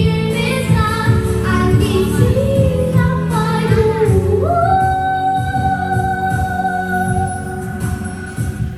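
A song with a woman singing over steady low accompaniment. About halfway through her voice glides up into one long held note.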